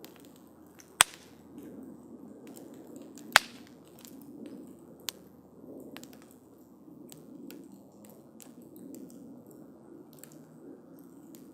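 Wood campfire crackling: two loud sharp pops about a second and three and a half seconds in, a smaller one a little before five seconds, and scattered faint crackles over the low steady sound of the flames.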